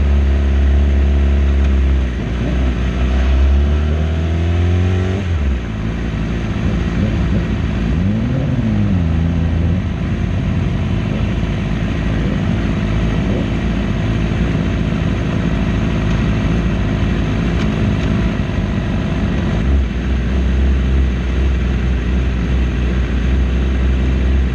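Racing motorcycle engine under hard acceleration: the pitch climbs steadily for a few seconds, then drops sharply about five seconds in as it shifts, followed by another brief rise and fall and then a steady high-rpm run.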